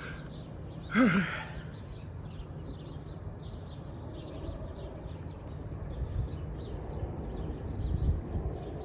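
Outdoor ambience: a low, uneven rumble with faint, short high chirps repeating a few times a second, and one brief sigh-like voice sound about a second in.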